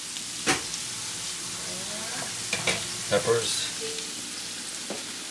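Food sizzling in hot oil in a frying pan, a steady hiss, with a few sharp clicks of a utensil stirring against the pan.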